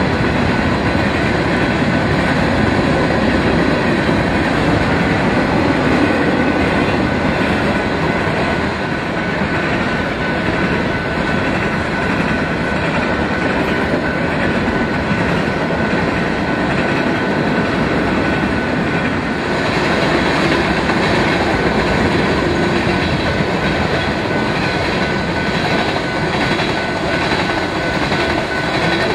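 Freight cars rolling past on the track: a steady noise of steel wheels on rail with a clickety-clack over the joints, changing in tone about two-thirds of the way through.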